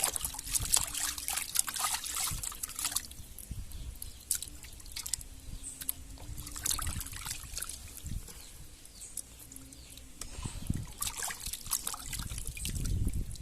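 Raw chicken pieces being washed by hand in water: irregular splashing and trickling with small knocks. It is busiest in the first few seconds and again near the end, with a quieter stretch in between.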